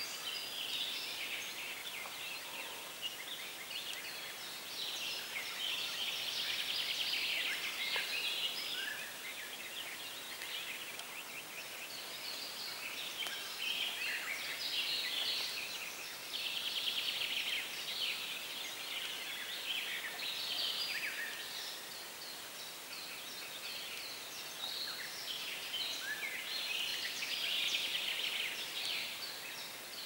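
Several songbirds singing at once, with rapid trilled phrases coming back every few seconds, over a faint steady hiss.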